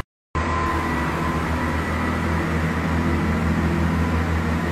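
A train idling at the platform: a steady low engine hum with a few faint, steady higher tones over it.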